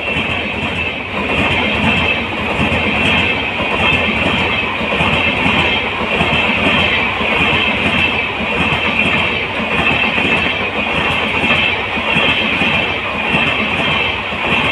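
Vande Bharat passenger coaches rolling on rails: a steady rumble and rail hiss, the hiss swelling in a regular beat about once a second.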